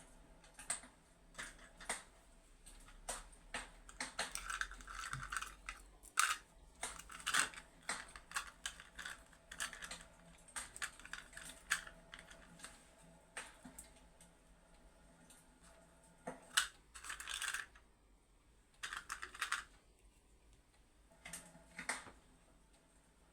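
Irregular close-up clicks and crackles, scattered unevenly, with a few short rustling bursts in between.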